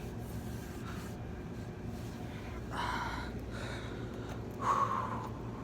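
A person breathing out twice in short, breathy puffs close to the microphone, over a steady low background hum.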